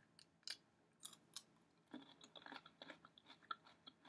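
Faint, scattered crunches and chewing as a person bites into and eats a homemade refrigerator pickle. The crunches come sparsely at first and more densely in the second half.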